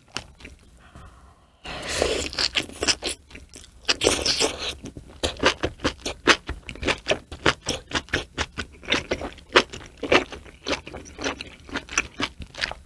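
Close-miked chewing of a mouthful of hot-pot food with green onions: a couple of longer noisy stretches early in the mouthful, then a steady run of wet, clicking chews several times a second.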